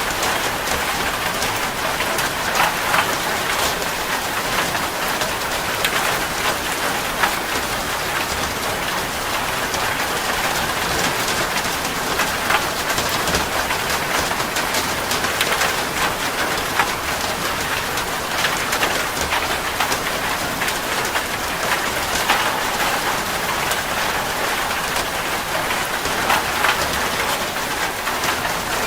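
Steady rain falling, a dense even hiss dotted with many sharp drop ticks.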